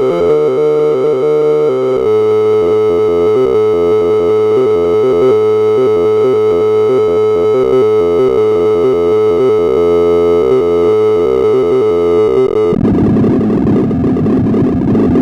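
Synthesized tones from a sorting-algorithm sonification, their pitch jumping in quick blocky steps as the program reads and moves array values. About 13 s in, the sound changes into a dense, rapidly warbling buzz.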